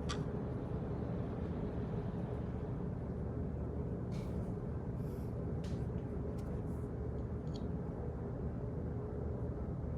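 Office background noise: a steady low rumble with a faint steady hum, and a few scattered light clicks.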